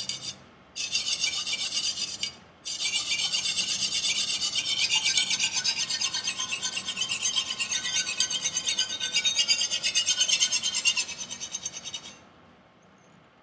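Chinese chef knife's steel edge being stroked rapidly back and forth on a sharpening stone, a steady scraping rasp with two short pauses near the start, stopping about twelve seconds in. The strokes are grinding away a rolled and micro-chipped factory V-edge.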